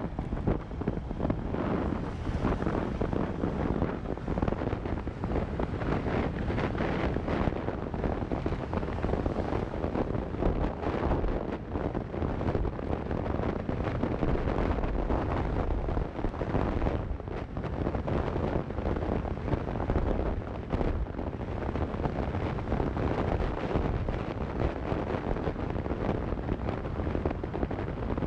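Wind buffeting an action camera's microphone on a moving motorcycle: a steady, rough rush of noise, with the motorcycle's engine and road noise underneath.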